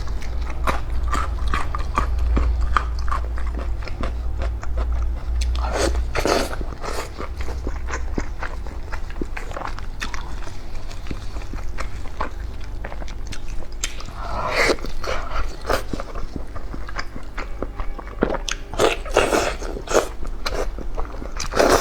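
Close-miked eating: a person biting and chewing food, with many sharp mouth clicks and a few longer, noisier stretches about 6, 14 and 19 seconds in, over a steady low hum.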